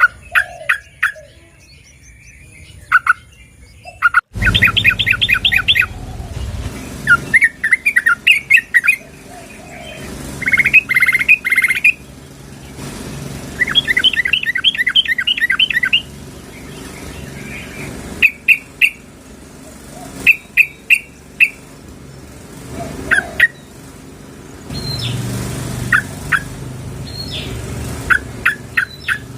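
Yellow-vented bulbul (trucukan) calling: short, quick bubbly chattering phrases repeated again and again, billed as a female calling to a male. The background changes abruptly about four seconds in, as at a splice between recordings.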